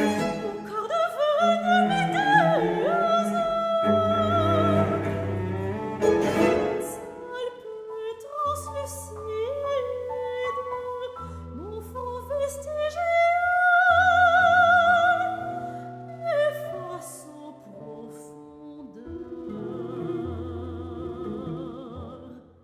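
Operatic soprano singing with wide vibrato over bowed strings, with long sustained low cello notes underneath.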